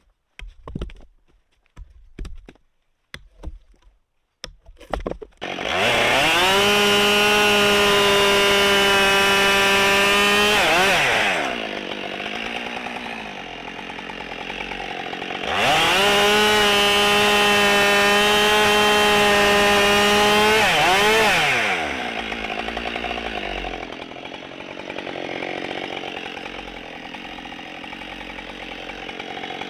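A few short knocks, then a Husqvarna 572 XP two-stroke chainsaw revs up and is held at full throttle for about five seconds, cutting firewood rounds. It drops back to idle, is held at full throttle for about five seconds again, and returns to idle.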